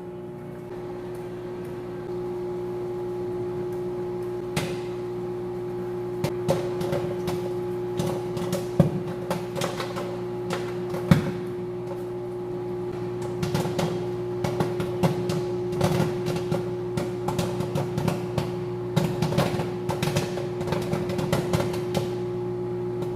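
Microwave oven running with a steady hum while popcorn kernels pop inside: a first pop about four and a half seconds in, then irregular pops that come more often, several a second in the second half.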